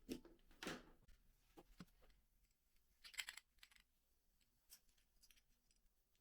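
Faint scattered clicks and scrapes of small hard parts being handled, with a louder group about three seconds in.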